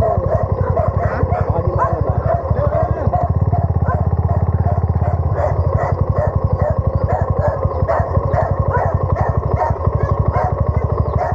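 Motorcycle engine running steadily, its exhaust beating in rapid, even pulses.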